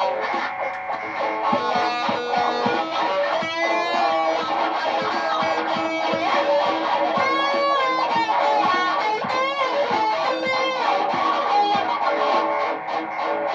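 Layered live-looped electric guitar: notes bent and slid in pitch are played over a steady, repeating guitar drone.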